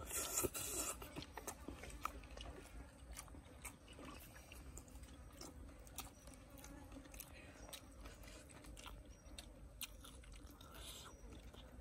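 Faint chewing and crunching of cooked spiders and greens, with many small crisp clicks scattered throughout.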